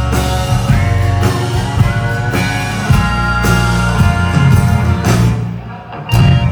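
Live country-rock band playing an instrumental passage, with guitars, bass and drums on a steady beat. Near the end the sound thins out briefly, then the full band comes back in.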